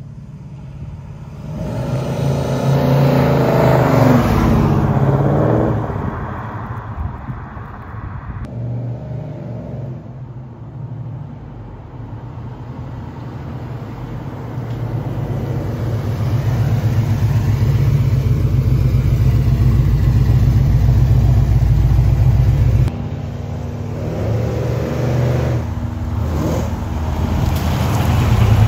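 Big-block V8 of a 1970 Chevelle SS 396 tribute running as the car drives, revving up and accelerating a few seconds in. The engine note jumps abruptly twice where shots change.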